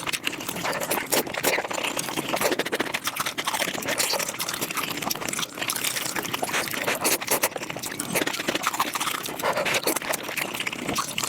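Close-miked eating sounds played back at five times speed: a rapid, unbroken stream of wet chewing, smacking and slurping clicks.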